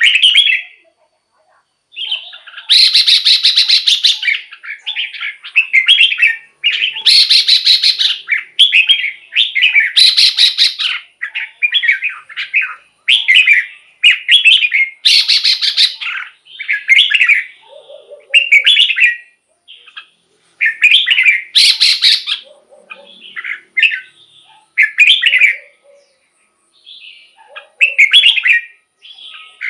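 Red-whiskered bulbul singing a run of short, quick whistled phrases with brief pauses between them. Several phrases are louder and harsher than the rest.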